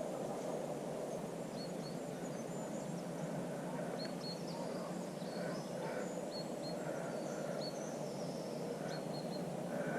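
Small birds calling with short, high chirps, often in pairs, over a steady low rush of background noise.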